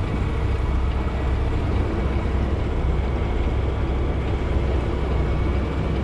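Semi truck's diesel engine running steadily at low revs, a deep even rumble, with the note dropping slightly right at the start.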